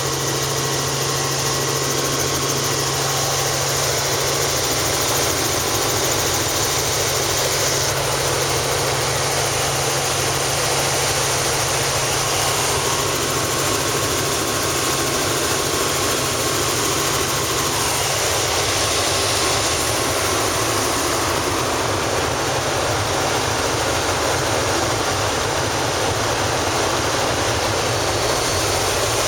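Helicopter in flight: a steady, loud drone of engine and rotor that does not change.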